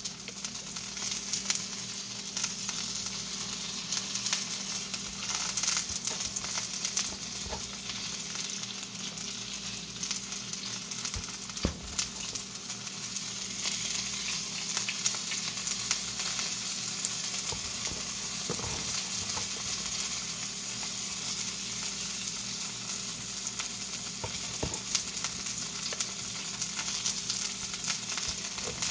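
Food frying in a hot pan: a steady sizzling hiss with scattered pops and crackles.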